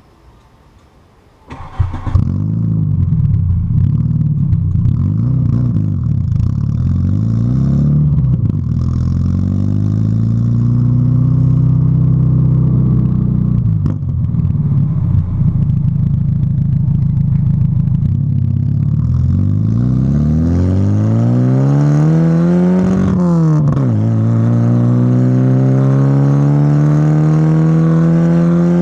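VW Golf MK3 engine starting about a second and a half in and running through an exhaust with the catalytic converter and middle muffler removed and a sport rear muffler fitted. It idles with small changes in revs, then near the end the revs climb slowly, drop suddenly and climb again.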